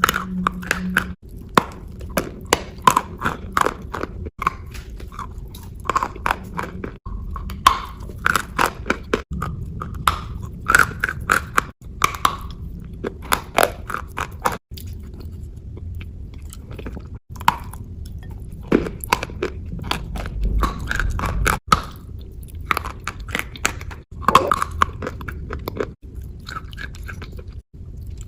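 Close-miked ASMR crunching and wet, pasty chewing: a dense run of crisp crunches and sticky mouth sounds, in short clips joined by brief breaks every two to three seconds.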